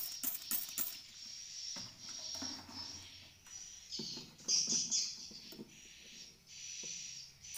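Swiftlets twittering: a dense, high-pitched chatter of chirps, with a quick run of clicks in the first second.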